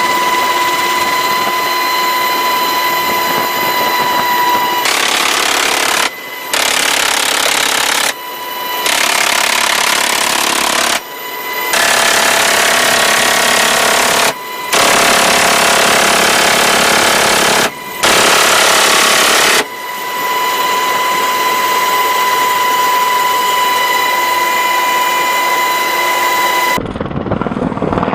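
Long bursts of rapid automatic fire from a helicopter's door-mounted machine gun, broken by short pauses and heard over a steady high whine. Near the end the gunfire gives way to a lower helicopter sound.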